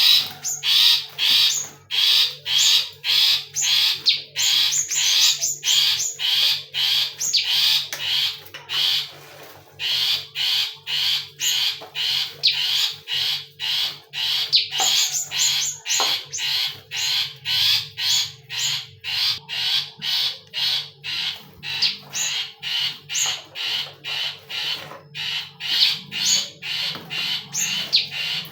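A caged bird repeating loud, harsh calls about two to three times a second, almost without pause, with a brief break about nine seconds in.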